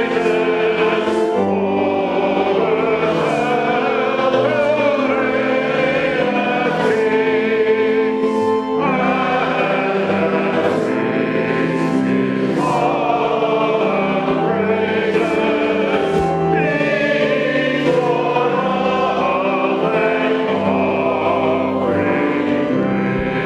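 Church choir singing with words, in slow, sustained chords.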